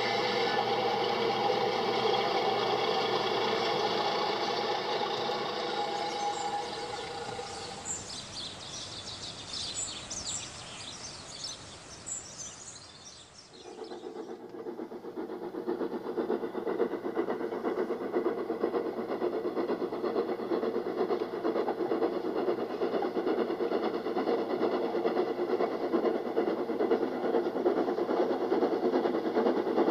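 A train running on rails, with several steady held tones for the first several seconds. A high hissing passage follows, with the sound dropping away about thirteen seconds in. After that the train runs steadily again.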